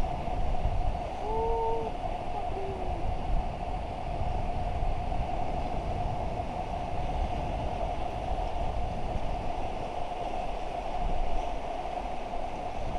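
Rushing river water heard from a raft, a steady roar with wind buffeting the microphone in a fluctuating low rumble. A brief call rings out about a second and a half in.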